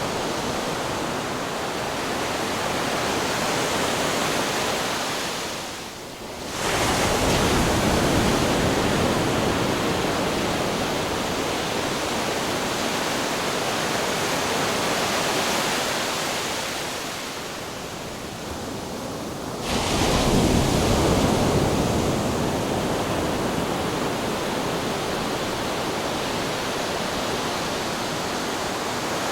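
Ocean waves breaking against rocks: a continuous rushing wash of surf, with a wave crashing in about six seconds in and another about twenty seconds in.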